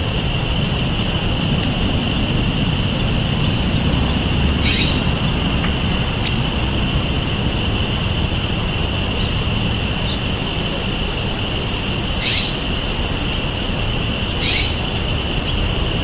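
Short, sharp bird calls, three in all, about five, twelve and fourteen seconds in. They sit over a steady high-pitched hum and a low, even rumble.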